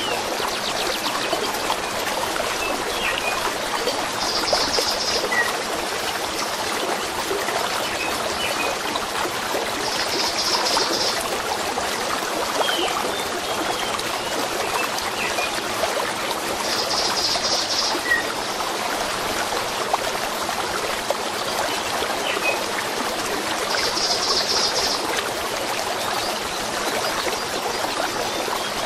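A stream running steadily over stones, with small birds chirping now and then. A short, high, rapidly pulsing trill comes back four times, about every six or seven seconds.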